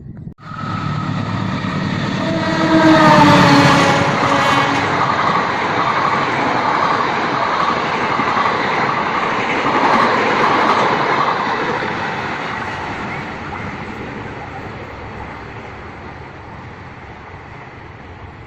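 Passenger train passing close by at speed. Its horn sounds and drops in pitch as it goes past, followed by the rattle and rumble of the carriages on the rails, slowly fading away.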